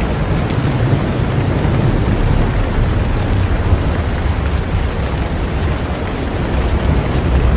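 Heavy rain falling steadily on a boat, a dense even hiss with a deep low rumble underneath that swells and eases.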